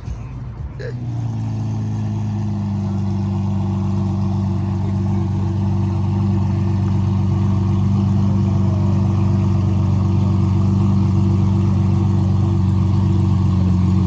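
A motor vehicle's engine running steadily: a low drone that sets in about a second in and grows slowly louder.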